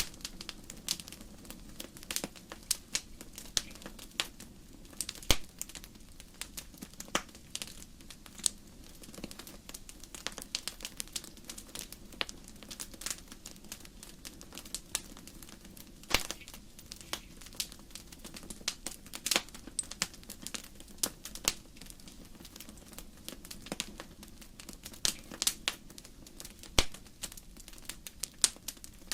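Wood fire burning in a fireplace: burning logs crackling, with irregular sharp pops scattered throughout over a low steady rumble of the flames.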